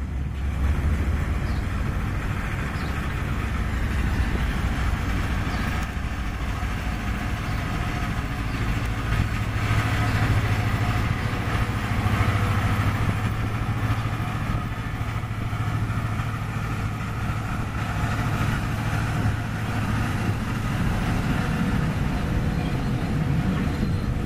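Freight cars of a chemical weed-spraying train rolling past on the rails: a steady rumble and clatter of wheels on track, with a low steady hum joining in for the middle stretch.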